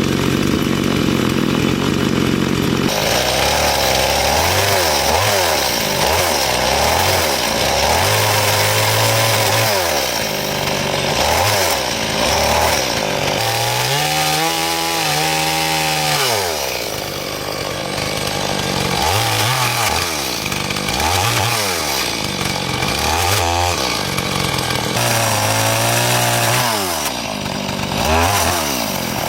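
Chainsaw running and cutting wood, its engine pitch repeatedly dropping and rising again as it bites into the log and frees up.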